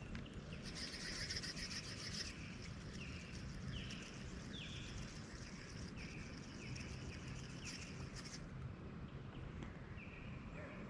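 A bird chirping over and over in short sloping notes, roughly two a second, over a steady low outdoor background. A high hiss runs for a second or two near the start and again briefly later.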